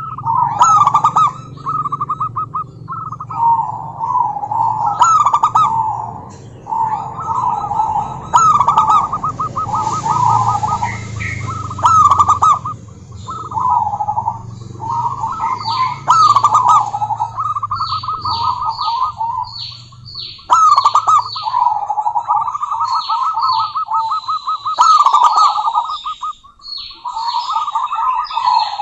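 Female zebra dove (perkutut) calling: bout after bout of quick, rolling staccato cooing notes. Quick high chirps from another bird cut in between the bouts.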